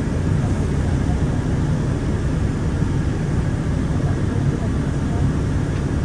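Inside a moving city transit bus: a steady low rumble of the engine and tyres.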